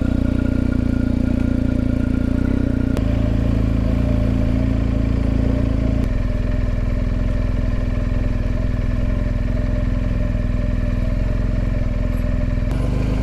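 BMW R1250GS boxer-twin engine idling steadily just after being started, its note shifting slightly about three and six seconds in.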